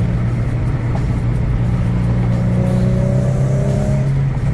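Infiniti G37 sedan's V6 engine and exhaust, fitted with quad carbon fiber exhaust tips, running steadily while driving. The note climbs slightly, then drops back near the end. It has a little stronger sound with the new tips.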